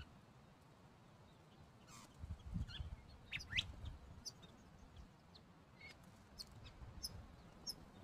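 Small birds calling faintly: quick high chirps and short sweeping notes, scattered from about two seconds in, over a low rumble.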